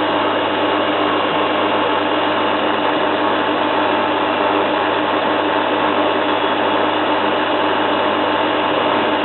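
Zanussi FLA1002W front-loading washing machine in its final spin, holding steady at top speed: a loud, even mechanical drone with steady tones through it.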